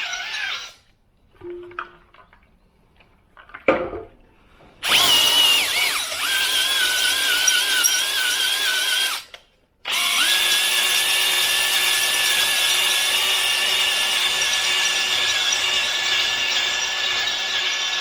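Electric drill spinning a cylinder hone in an engine block's cylinder bore, with a high, steady squeal from the stones on the cylinder wall. It stops about a second in; after a clunk near four seconds it starts again, drops out briefly near nine and a half seconds, then runs steadily.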